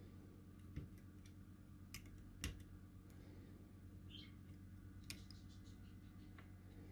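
A few faint, sharp clicks and taps from handling a small four-legged tactile push switch and the circuit board while trying to push its legs through the holes, the loudest about two and a half seconds in, over a steady low hum.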